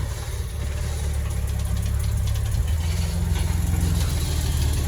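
1978 Mercedes-Benz 280CE's 2.8-litre fuel-injected straight-six running at low revs, a steady hum that slowly grows louder as the car comes closer. The owner has noted a slight exhaust blow and a rich-running smell.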